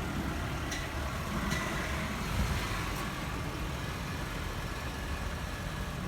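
Truck running at low speed over bumpy off-road ground: a steady low engine and road rumble with a few light clicks.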